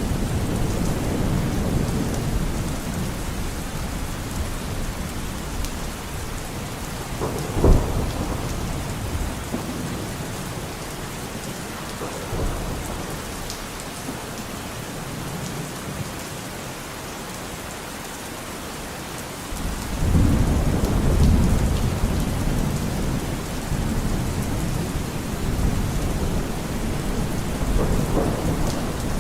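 Steady rain with rolls of thunder. A sharp thunderclap comes about eight seconds in, and a louder low rumble of thunder starts suddenly about two-thirds of the way through.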